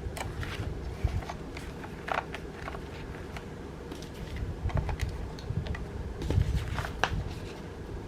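Handling noise from a cross-stitch kit's materials: scattered soft rustles and small clicks over a low steady rumble.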